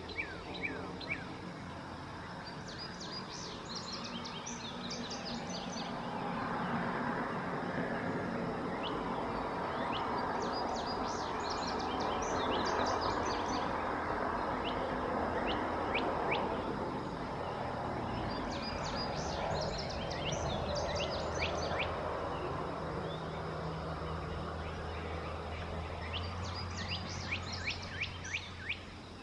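A songbird singing short bursts of quick, high notes, one burst about every eight seconds, over a steady background rumble and hiss.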